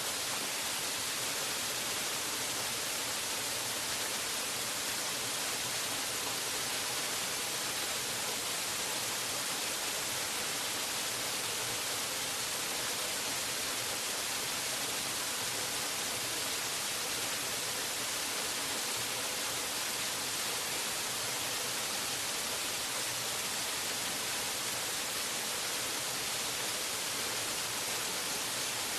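Waterfall rushing: a steady, even hiss of falling water, brightest in the treble, with no change in level or character.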